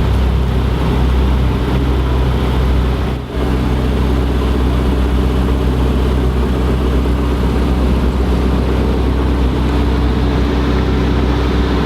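A car engine idling steadily, with a brief drop in level about three seconds in.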